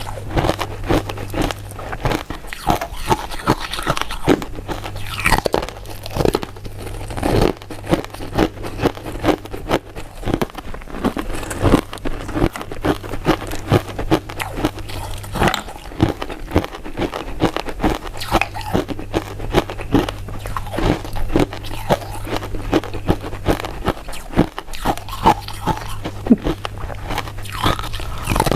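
Close-miked chewing of powder-coated mint candy: steady crisp crunches, two or three loud bites a second, with a low hum underneath that drops out now and then.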